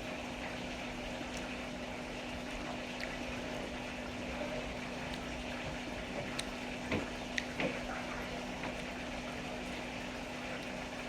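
A steady low hum over even background noise, with a few light clicks and taps a little past the middle.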